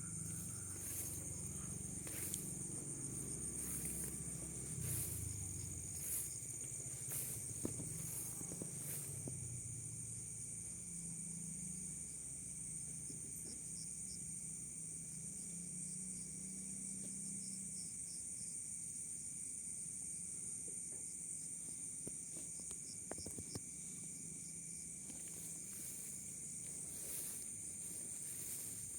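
Steady high-pitched chorus of forest insects, with scattered sharp clicks and rustles in the first several seconds and again near the end.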